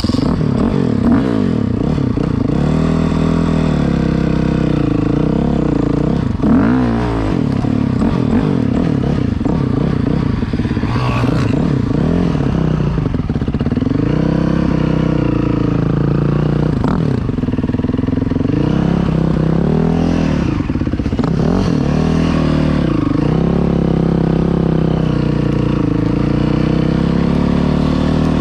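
Dirt bike engine run hard close to the microphone, the revs rising and falling over and over as the bike is ridden on and off the throttle.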